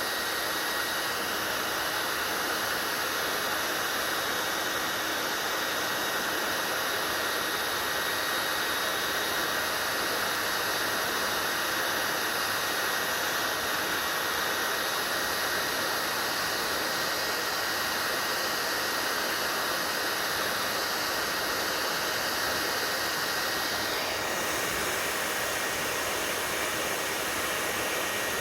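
Hair dryer running steadily: a constant rushing blow with a thin, steady whine, the hiss shifting slightly near the end.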